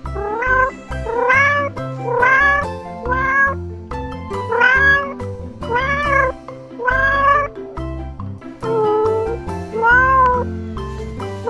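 Kittens meowing repeatedly: about ten short meows, each rising in pitch, over background music.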